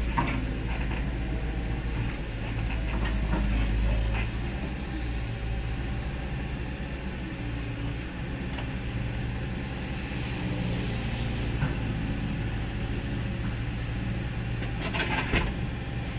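Heavy diesel engine running steadily with a low rumble, a little louder in the first few seconds. A few sharp metallic knocks come about a second before the end.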